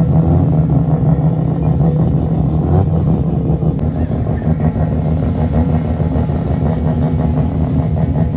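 Race car engines running loudly and steadily, a deep continuous drone with fainter engine notes rising and falling over it.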